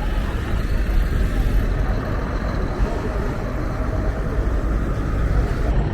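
Steady low rumble of a heavy vehicle's diesel engine running.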